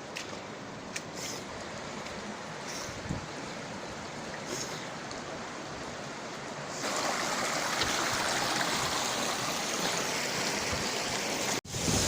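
Steady rush of a river and waterfall, an even hiss of running water, with a few light taps in the first half. It steps suddenly louder about seven seconds in and breaks off for an instant near the end.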